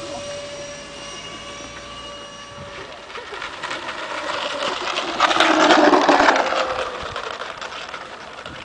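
Twin ducted fans of a radio-controlled SR-71 Blackbird model jet: a steady whine fades over the first three seconds, then a rushing pass swells to its loudest about six seconds in and dies away.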